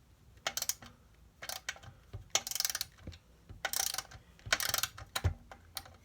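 Socket ratchet wrench clicking as it loosens the muffler bolts on a small two-stroke generator, in about six short spells of rapid clicks.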